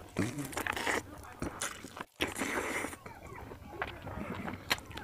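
Close-miked eating sounds: a man chewing and smacking on a mouthful of duck biryani, with small wet mouth clicks.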